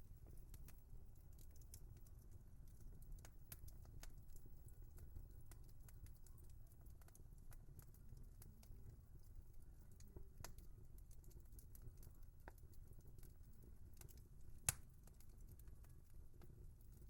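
Wood fire crackling softly: scattered small pops and ticks over a low rumble, with one sharp, louder pop near the end.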